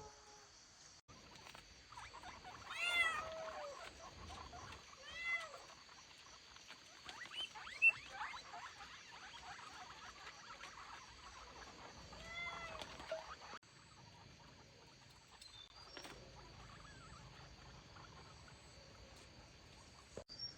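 Kitten meowing three times, each meow a short rise-and-fall call: a few seconds in, again two seconds later, and once more about halfway through. Light scratchy clicks between the second and third meow.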